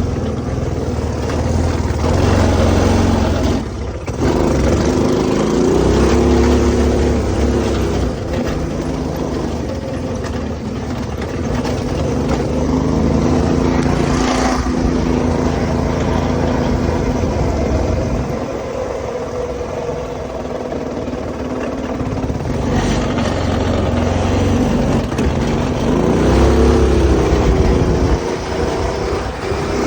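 Go-kart's small engine, fitted with a new 30 mm carburetor, running under throttle and revving up and falling back several times.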